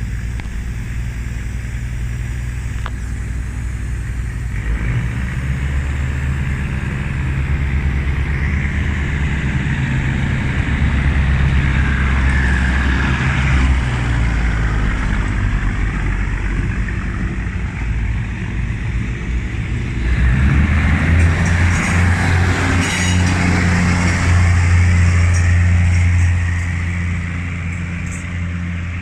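Diesel train running past close by: a low, steady engine drone with wheel-and-rail noise that swells twice, loudest a little past the middle, and eases near the end.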